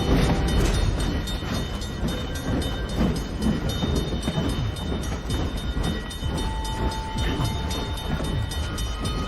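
Rumble of a train running on rails, a steady low roar throughout with a faint held tone in the middle.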